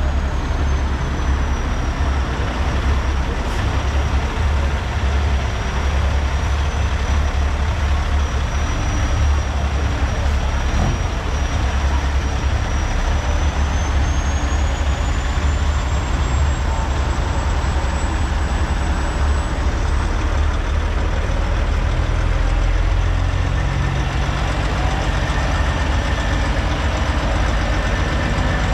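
Heavy truck running with a steady low rumble, and a faint high whine that slowly sinks and then rises in pitch.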